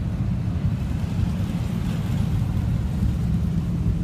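Steady low rumble of classic car engines running in passing cruise traffic.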